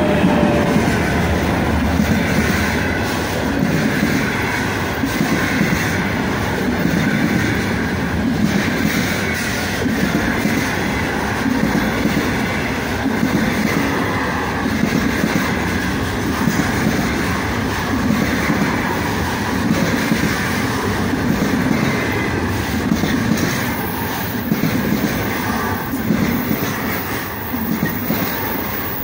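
Freight train of loaded container flatcars rolling past close by behind a 3ES5K 'Ermak' electric locomotive: a steady rumble of steel wheels with rhythmic clickety-clack over the rail joints.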